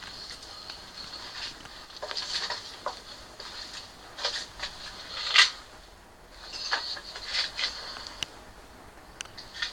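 Irregular rustling and scraping handling noises, with one sharp knock about halfway through and a few light clicks near the end.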